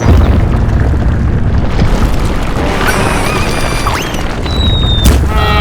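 A loud deep rumbling boom that starts suddenly and carries on as a crashing rumble, with music and a few short whistling tones over it.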